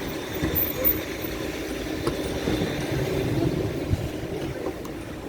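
Old Ford route-taxi minibus running, heard from inside its cabin: a steady engine and road noise, with a few short knocks and rattles.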